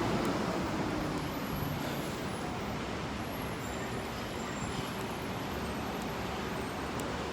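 Steady road-vehicle noise, a continuous hum of engines and tyres with no distinct single events, easing slightly in the first second or two.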